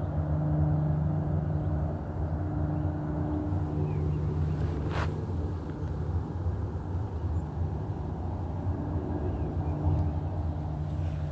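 A steady low motor hum holding one constant pitch over a rumble, with a brief sharp noise about five seconds in.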